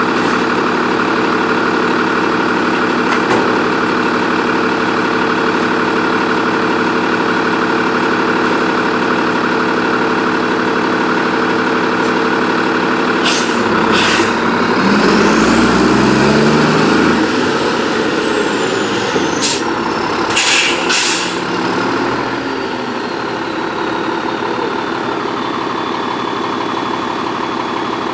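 Freightliner Condor garbage truck's diesel engine idling steadily. Partway through, the engine revs up and back down for several seconds. Short sharp hisses of air, typical of air brakes, come just before and toward the end of the rev, then the engine settles back to idle.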